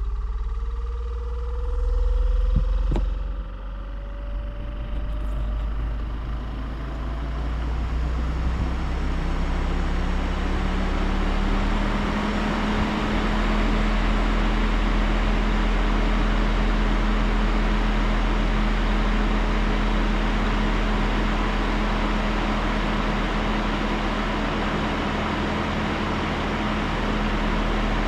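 A 12-volt rooftop air conditioner (OutEquip Pro, 10,000 BTU) running on turbo mode just after start-up. Its fans and compressor spin up, with hums rising in pitch over roughly the first ten seconds, then settle into a steady, loud whir. There is a brief click about three seconds in.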